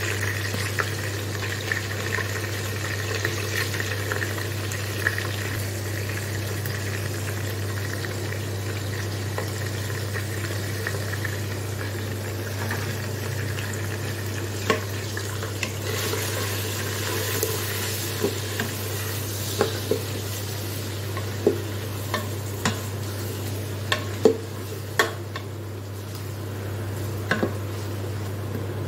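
Chicken and spices sizzling in oil in the inner pot of an electric pressure cooker, stirred with a wooden spoon. From about halfway, the spoon knocks sharply against the pot every second or two. A steady low hum runs underneath.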